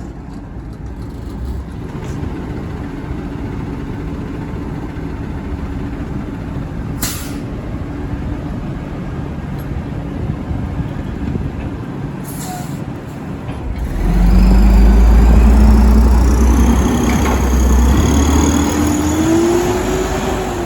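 Burrtec garbage truck's diesel engine running, with two short air hisses. About 14 s in, the engine revs hard and gets much louder, its pitch climbing and then dropping back near the end.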